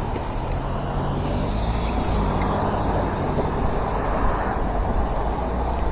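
Steady wind and road noise while riding a dual-hub-motor electric bike.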